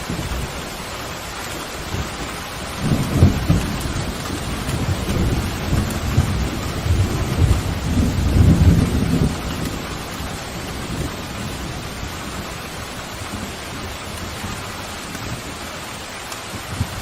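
Steady heavy rain with a roll of thunder. The thunder starts about three seconds in, rumbles loudest near the start and again around eight to nine seconds, then fades back into the rain.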